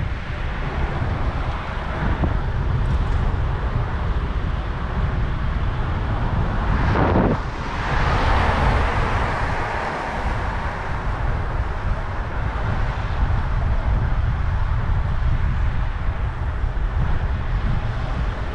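Wind buffeting the microphone of a camera on a moving bicycle, a steady low rumble over street traffic noise. About seven seconds in a louder rush of noise swells and fades away over a few seconds.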